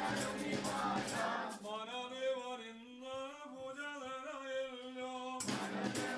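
Faint singing: one voice holding a slow, long-drawn melody for a few seconds, as in a Christmas carol, with no spoken words.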